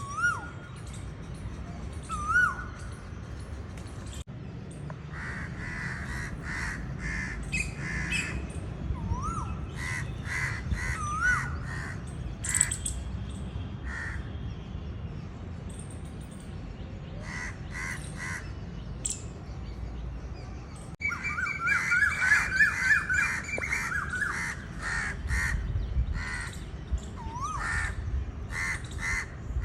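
Several birds calling over a steady low rumble: repeated short chirps and caw-like calls with a few rising whistled notes, turning suddenly busier about two-thirds of the way through.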